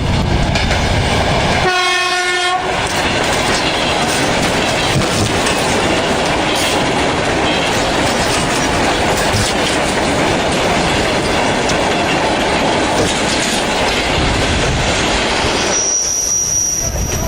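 A train running close by with loud, steady rumble and rail noise. About two seconds in comes a single-note horn blast lasting about a second, and near the end a high, steady tone sets in.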